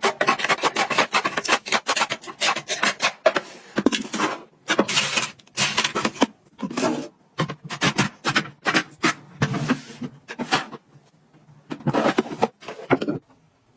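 Rapid, irregular rubbing and scraping strokes of things being handled, which stop shortly before the end.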